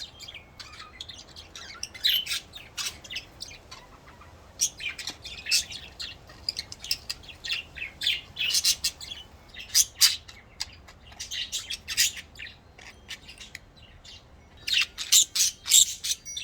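Pet budgerigars chirping and chattering in many short, sharp calls, with a dense flurry near the end. The owner takes the male's calling for him urging the hen to go into the nest box.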